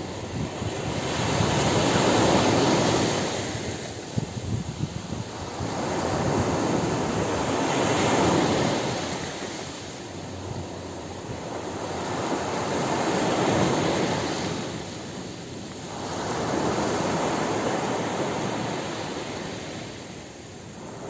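Ocean waves breaking on a beach, each one swelling and then washing out, about one every five or six seconds, four in all.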